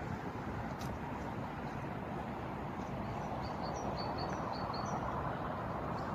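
Steady outdoor background rumble, with a small bird chirping a quick run of short high notes about three to five seconds in.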